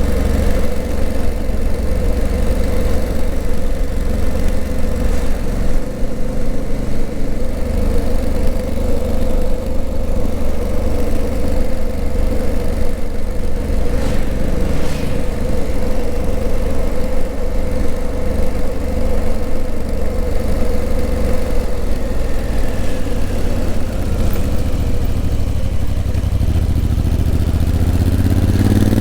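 Honda CRF1000L Africa Twin's parallel-twin engine running steadily at low revs, then rising in pitch as the bike accelerates over the last few seconds.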